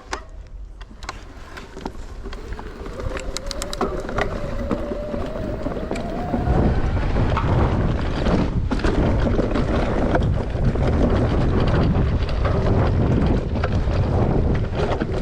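Electric mountain bike ridden on a trail: chain and suspension rattles and clicks, with a Shimano EP8 motor whine rising in pitch as it accelerates. About six seconds in, loud wind and tyre rush takes over as the speed builds.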